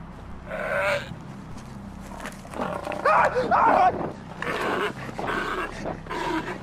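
Loud cries in several outbursts, rising and falling in pitch.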